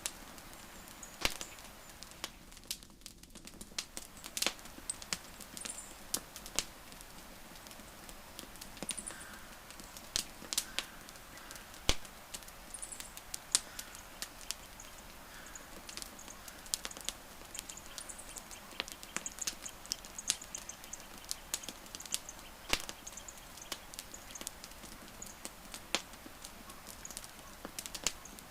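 Wood campfire crackling, with irregular sharp pops and snaps over a soft hiss. Faint high chirps come and go in the background.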